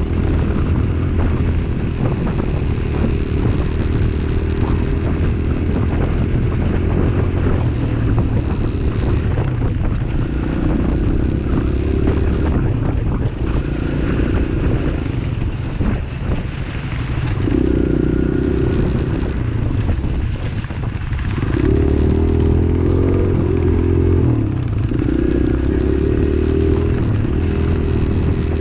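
Dirt bike engine running while being ridden, its note rising and falling in stretches with the throttle, over a steady rush of noise and frequent knocks and rattles.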